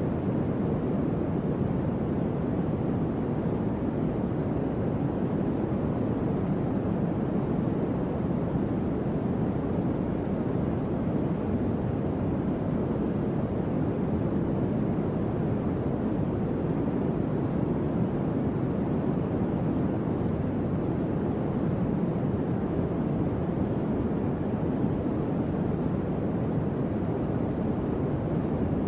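Electric fan running: a steady, low airflow hum that stays even throughout.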